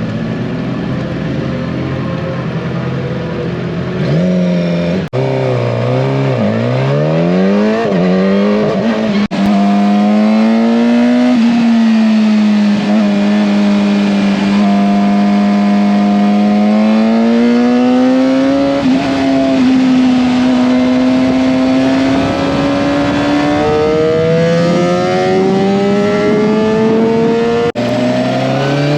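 Motorcycle engine at speed on a race track, its revs repeatedly climbing and falling. The sound breaks off abruptly about 5, 9 and 28 seconds in.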